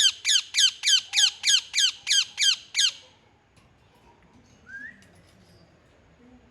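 Pet parrot giving a rapid run of loud, harsh squawks, about three a second, that stops about three seconds in. A single short, quieter rising call follows a couple of seconds later.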